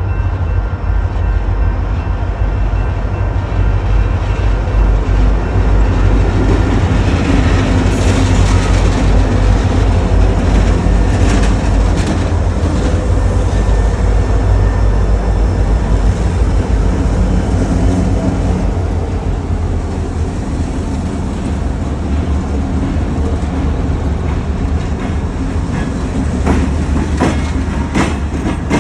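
Utah Railway diesel freight locomotives passing: a heavy, steady engine drone and rumble. Wheels click over rail joints near the end.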